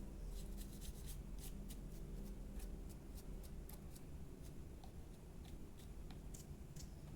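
Small, irregular clicks and scratches from hands working on the opened hair dryer's plastic parts, over a low steady hum.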